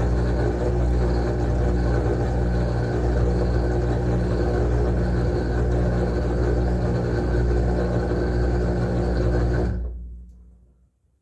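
Whirlpool washing machine on its high-speed spin with a huge load of towels, a loud, steady hum and rumble. It stops suddenly about ten seconds in.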